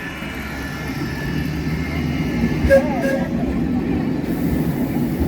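Tren de Sóller, a vintage electric train, rumbling as it approaches, growing louder at first and then steady, with a couple of knocks and a brief squeal about halfway through.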